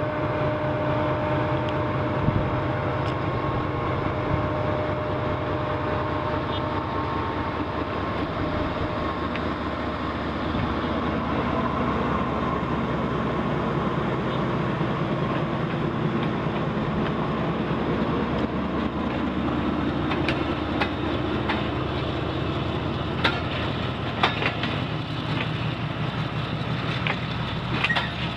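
GE diesel-electric locomotive of Pakistan Railways running as it hauls a passenger train slowly past, a steady engine drone with a held whine while it goes by. In the second half the coaches roll past with sharp wheel clicks and clanks.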